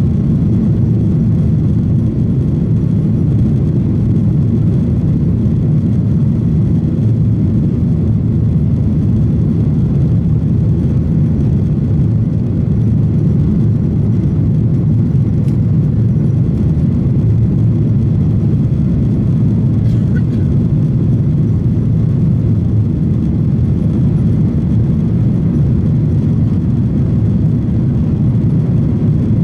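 Steady, loud low cabin noise inside a Boeing 737-900ER airliner: the even rumble of the engines and airflow heard from a passenger seat.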